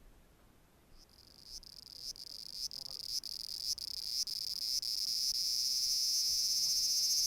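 A high-pitched insect song. It starts about a second in as short pulses, about two a second, then runs together into a continuous buzz that grows steadily louder.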